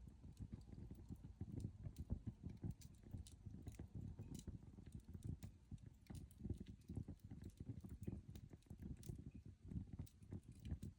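Coal fire burning, with a low uneven rumble and scattered faint crackles and ticks.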